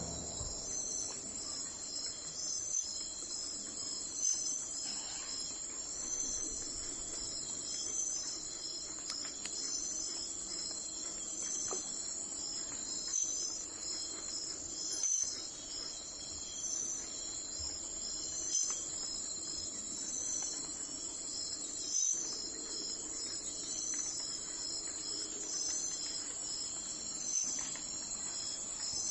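Crickets chirping in a steady high-pitched chorus, with a regular pulsing pattern throughout.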